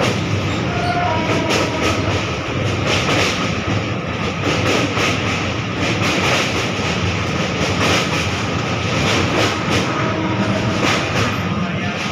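Passenger train coaches running on the rails, heard from on board: a steady wheel rumble with a rapid clickety-clack of wheels over rail joints.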